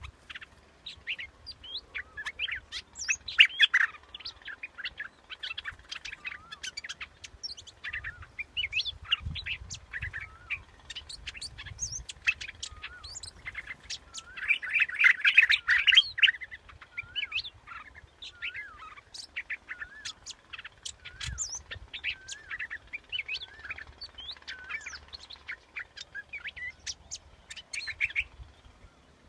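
Bulbuls (the Thai "dok taeng" yellow bulbul) chirping and singing: a steady run of short whistled, warbling notes, densest and loudest about halfway through. This is a decoy call recording used to lure the same species.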